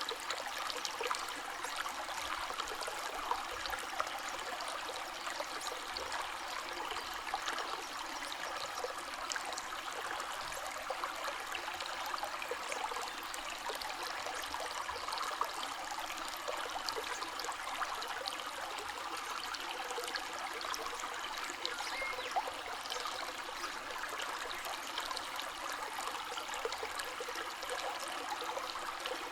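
A stream or small river flowing steadily over stones, a constant rushing babble with fine splashing and trickling detail.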